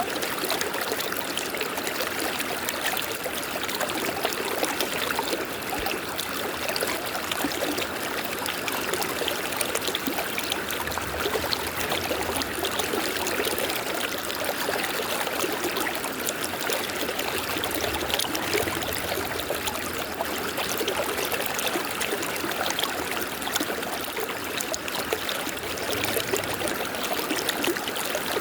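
A river's running water, a steady, even rush without pause or change.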